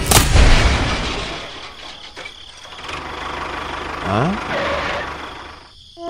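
Crash effect for a toy steam train toppling off its plastic track into a sand pit: a sudden loud bang with a deep boom at the start that dies away over about a second, followed by a lower rumbling noise. About four seconds in, a short rising sound.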